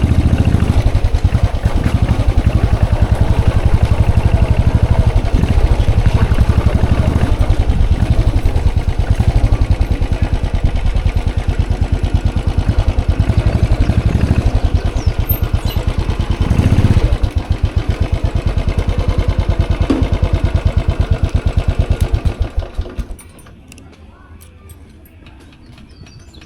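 Royal Enfield Classic 500 EFI's single-cylinder engine idling with a steady, fast beat, briefly revved about 17 seconds in, then switched off about 23 seconds in.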